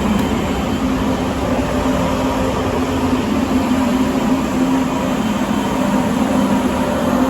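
Train running: a loud, steady rumble with a low, even hum.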